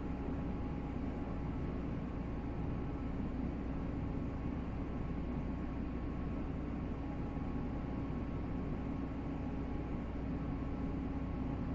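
Steady running noise inside a 485-series electric train: an even rumble of wheels and rails with a few faint steady tones over it.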